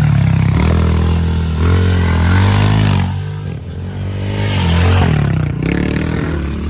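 Pit bike engine revving up and easing off several times, its pitch climbing and dropping as it is ridden.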